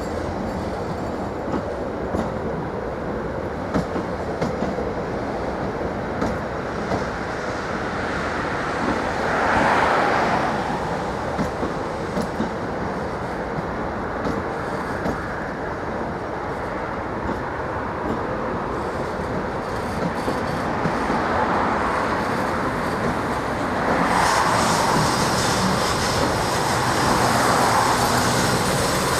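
Train running along the track, its wheels clicking over the rail joints, with the rolling noise rising around ten seconds in and again near the end.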